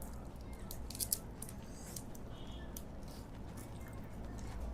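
Close-up eating sounds of a person chewing a soft sweet: scattered small wet mouth clicks, a cluster of them about a second in, over a low steady hum.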